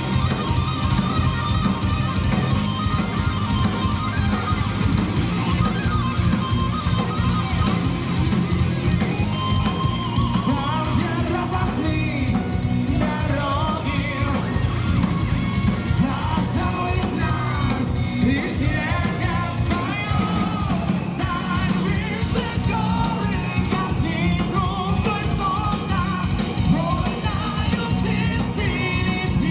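A heavy metal band playing live at full volume: distorted electric guitars, bass and drum kit. A bending lead melody rides over the band from about ten seconds in.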